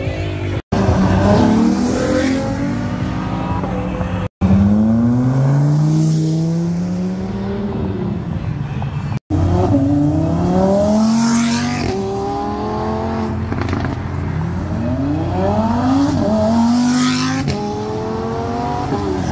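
Cars accelerating hard past one after another, each engine revving up in rising sweeps that drop back and climb again as it shifts gears. The sound breaks off in three brief cuts.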